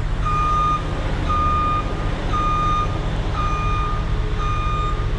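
Truck's reverse alarm beeping steadily, about once a second (five beeps), over the low running of the truck's diesel engine.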